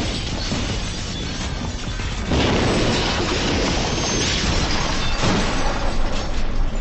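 Film sound effects of a huge vehicle explosion: a continuous rumble with crashing and shattering debris, jumping suddenly louder about two seconds in and surging again about five seconds in.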